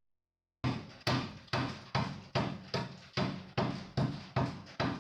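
A steady series of sharp knocks, about two and a half a second, each dying away quickly with a short low ring, starting about half a second in.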